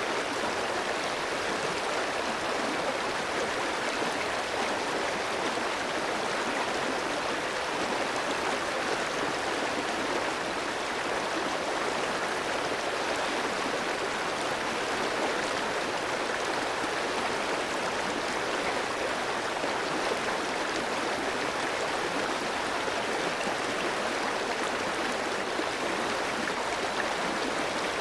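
Clear mountain stream flowing over rocks: a steady rush of water with no breaks or single events.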